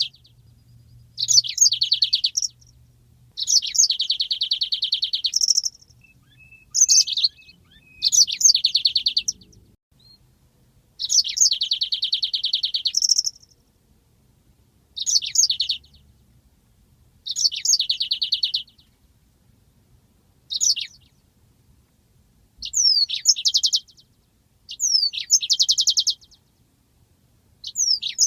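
Yellow-fronted (Mozambique) canary singing its rolling song. The bird repeats phrases of a few quick falling notes that run into a long, fast, high trill, each phrase lasting one to two seconds with short pauses between.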